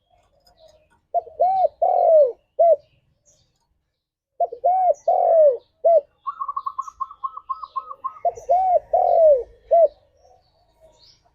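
Spotted dove cooing three times. Each phrase has four notes: a short note, two longer arched coos and a short closing note. Between the second and third phrase a higher, rapid run of about seven notes a second is heard, with faint small-bird chirps scattered throughout.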